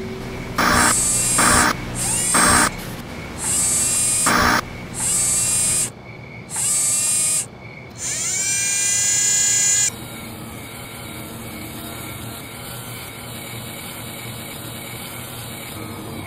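Robot servo-motor sound effects: five short mechanical whirs in quick succession, then a whine that rises and levels off about eight seconds in. This gives way near the ten-second mark to a steady electronic hum.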